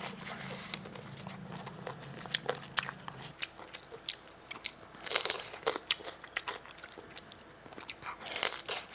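Close-miked crisp crunching and chewing as squid and then a raw bitter melon are bitten and chewed, with sharp crackling crunches in clusters, the densest about five seconds in and again near the end.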